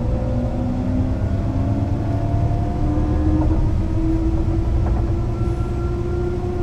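Mercedes-Benz O 405 NÜ low-floor bus accelerating: its engine note rises slowly and steadily in pitch over a constant low rumble.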